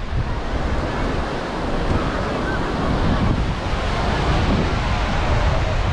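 Atlantic surf washing steadily onto a sandy beach, with wind buffeting the microphone.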